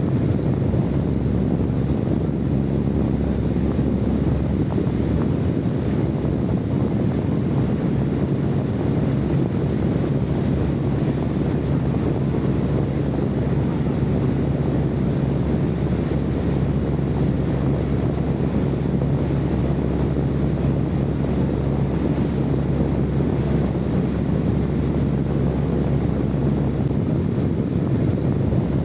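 Steady low rushing noise with a faint hum in it, recorded live for use as sleep noise.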